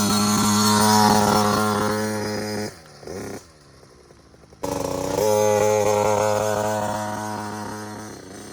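KTM youth motocross bike's small two-stroke engine pinned at high revs for a gate start, held at a steady high pitch for nearly three seconds, cutting back, then pinned again for about three and a half seconds before fading. The clutch wasn't turned up enough, set too soft for the launch.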